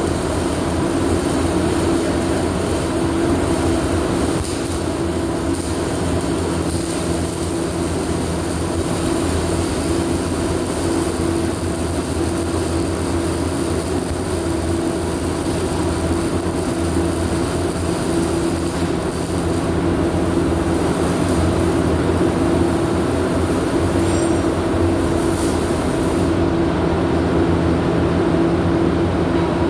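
Steady machine hum over constant noise, with an unchanging droning tone and no breaks.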